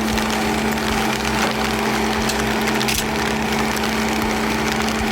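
Heavy equipment engine running steadily with a constant hum, with wind buffeting the microphone.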